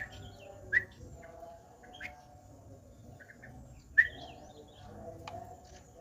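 Yellow-vented bulbul (trucukan) giving short, sharp chirps, four loud ones spread over the few seconds, among quieter chirping.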